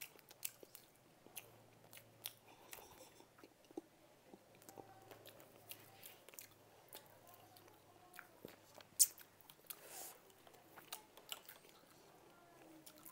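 Close-up eating sounds: people chewing and biting food, with wet mouth clicks and crisp crunches scattered throughout, and one sharper click about nine seconds in.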